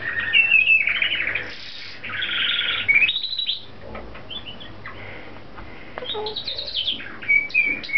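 Pet lorikeets chirping and whistling in short bursts, with one harsh, buzzy screech about two seconds in. After a brief lull comes a fast run of short chirps and whistles near the end.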